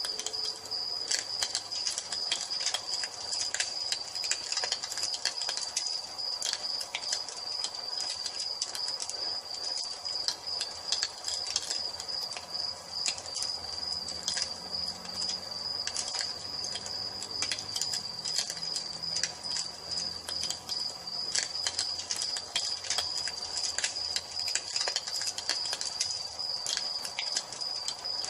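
Wood fire crackling, with irregular sharp pops and snaps, over a steady high trill of crickets.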